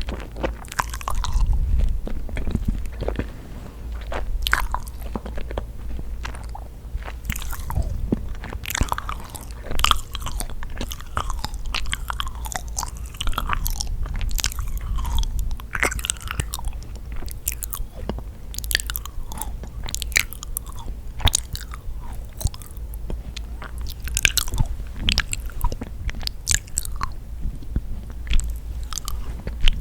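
Close-miked chewing and biting of yakgwa, a sticky honey-soaked Korean fried cookie: wet, sticky mouth sounds with many sharp, irregular clicks and smacks.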